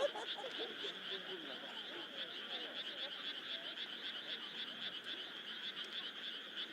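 A dense chorus of frogs calling, a steady, rapid pulsing trill with faint voices under it in the first second or so.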